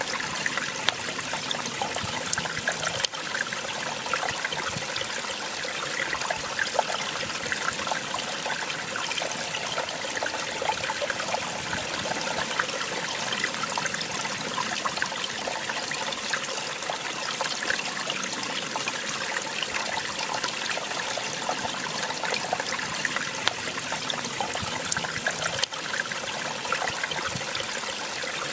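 Small waterfall splashing and trickling steadily, with many small splashes over a continuous rush of falling water.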